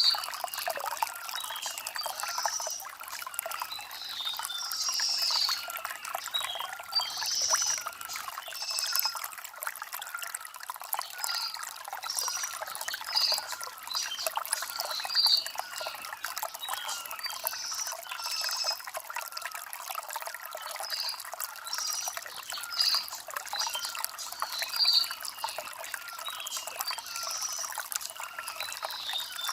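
Shallow stream trickling and gurgling over stones, steady throughout, with short high bird chirps recurring every second or two.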